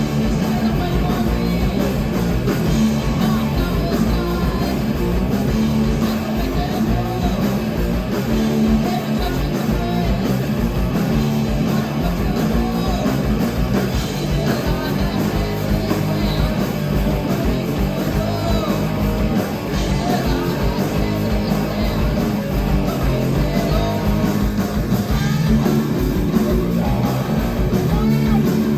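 Live heavy rock band playing, with electric guitar, bass and drums.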